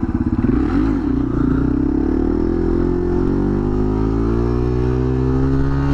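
Dual-sport motorcycle engine running under throttle, its pitch climbing slowly and steadily as the bike gains speed. Wind rushes over the microphone, and the engine note flutters for about the first second.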